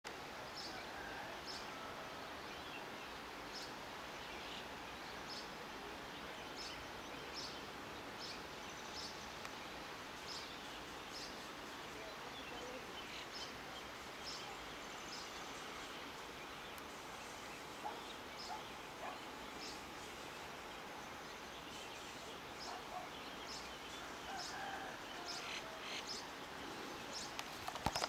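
Birds chirping over a faint, steady background hiss: short high chirps repeat about once a second, with a few lower whistled notes in the second half.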